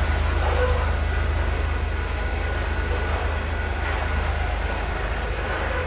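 BNSF freight train going by, with a steady low rumble.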